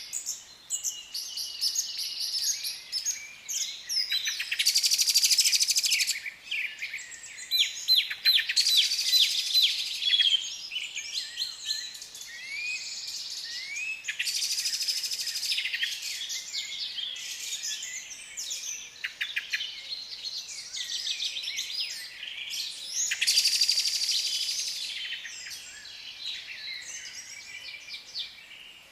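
Several African lovebirds chirping and chattering without pause, broken by loud bursts of rapid, harsh screeching about four seconds in, around eight to ten seconds, around fourteen seconds, and again around twenty-three seconds.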